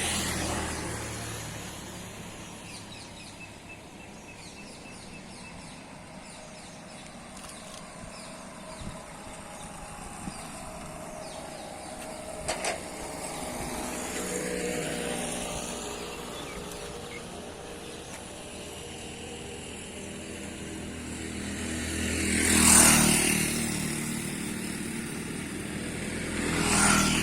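Road vehicles, motorbikes among them, passing close by one after another, each engine swelling and fading, the loudest pass about two-thirds of the way through, over a steady rushing background.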